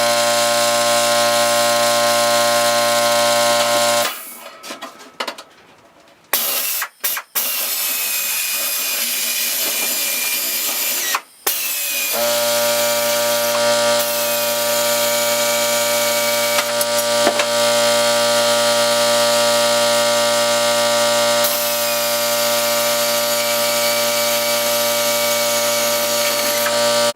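An electric power tool runs with a steady hum and a high hiss for about four seconds. A noisier stretch follows with brief gaps. The tool then runs steadily again until it stops abruptly near the end.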